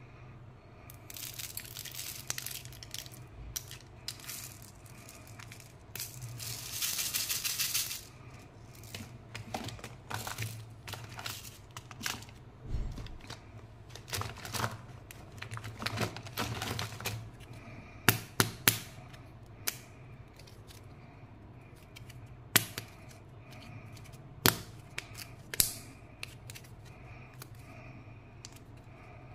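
Candy and toy packaging being unwrapped by hand: plastic wrappers crinkling and tearing in irregular bursts, with a longer, louder stretch of tearing about six seconds in and a run of sharp clicks and snaps later on. A faint steady hum lies under it.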